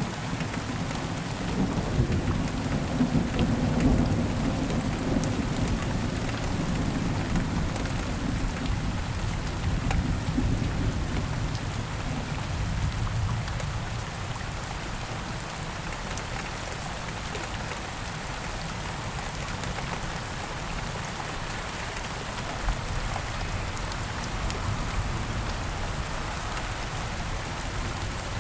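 Steady rain falling with a long, low roll of thunder through the first half, which fades away about midway, leaving only the rain.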